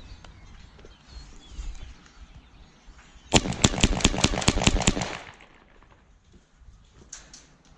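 A flock of birds flushing from trees: a quick run of wing claps and flapping, about five a second, lasting under two seconds, with a few fainter claps near the end.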